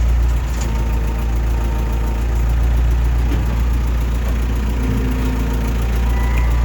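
Backhoe's diesel engine running steadily at a low, even idle.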